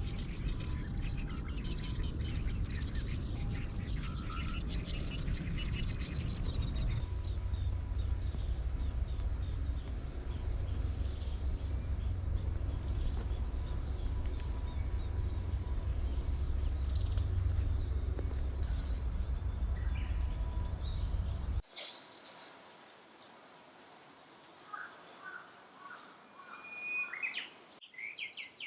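Wild songbirds singing and calling, with many high chirps, over a steady low rumble. About three-quarters of the way through, the rumble stops abruptly and the bird calls are heard on their own, clearer against a quieter background.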